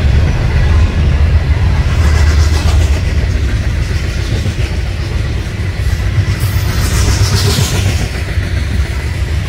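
Manifest freight train passing at about 45 mph: a steady, heavy rumble of wheels on the rails, with a brief rise of hiss about seven seconds in.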